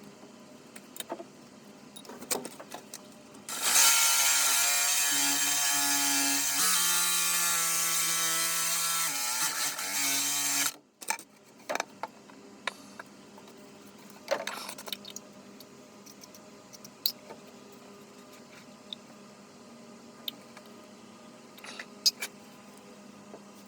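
A small motor runs for about seven seconds, its pitch stepping up and down a few times, then stops abruptly. Scattered clicks and knocks come before and after it.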